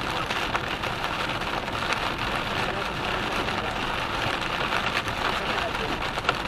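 Rain pelting a car driving on a motorway: a steady dense hiss of drops striking the car with fine ticks, over road and engine noise.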